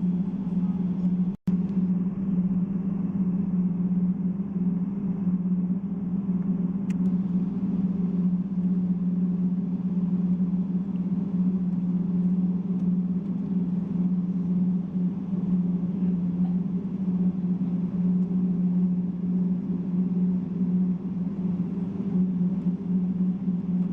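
Steady engine drone inside a Boeing 777's cabin: an even rush of noise over a constant low hum. It cuts out completely for an instant about a second and a half in.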